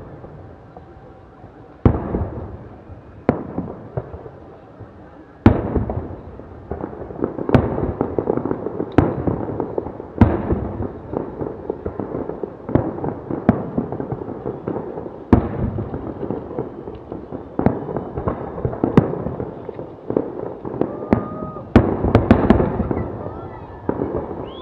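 Fireworks display: shells bursting in a rapid, irregular series of bangs, each trailing off in crackle. The bursts come almost without a break, with a dense volley near the end.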